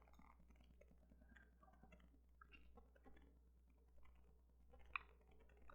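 Near silence: faint room tone with a few scattered soft clicks, one sharper click about five seconds in.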